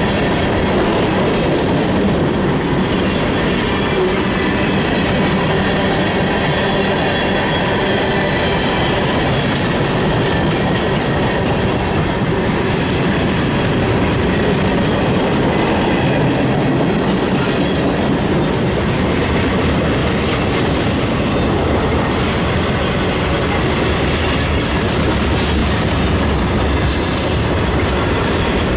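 Railroad cars of a passing train rolling by on the track: a continuous, steady wheel-on-rail noise.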